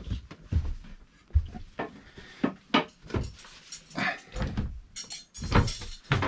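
Irregular knocks and clatters of dishes and cooking gear being handled as grilled food is served, with a few sharper clunks toward the end.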